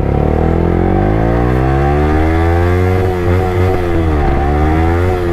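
Yamaha R15 V3's single-cylinder engine running loud through an Akrapovic exhaust with no dB killer fitted. The revs climb steadily, then dip and pick up again three times in the second half.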